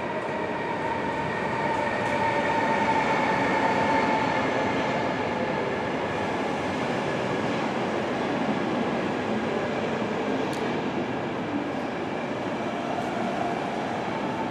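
Electric-hauled sleeper train rolling slowly into a station platform: a steady rumble of wheels on rail with high whining tones over it, loudest as the locomotive passes a few seconds in, then holding steady as the coaches go by.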